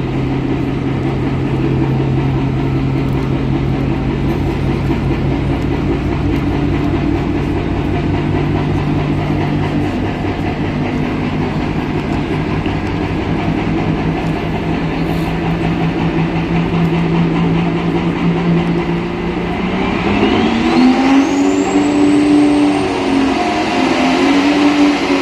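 Pulling tractor's engine running steadily, then revving up about twenty seconds in, with a high whine that climbs sharply in pitch.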